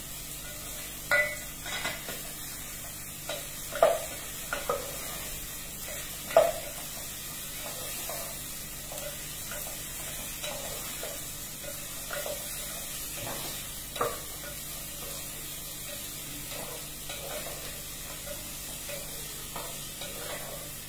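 Carrots frying in oil in a stainless steel pot, with a steady faint sizzle, stirred with a spoon that knocks and scrapes against the pot now and then; the louder clanks come mostly in the first seven seconds, with one more at about fourteen seconds.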